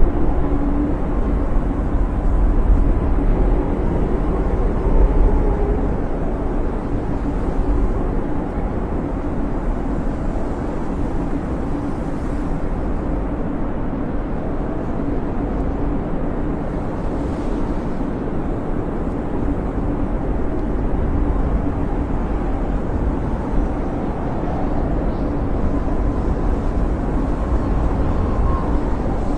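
Snowstorm wind howling: a steady low rumble with faint whistling tones that waver up and down.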